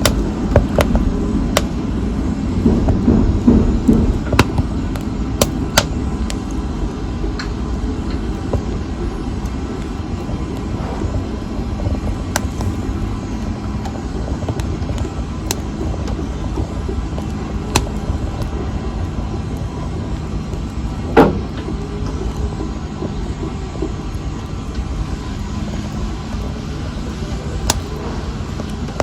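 Wood fire burning in a fireplace: a steady low rumble of flames with scattered sharp crackles and pops, one louder pop about two-thirds of the way through.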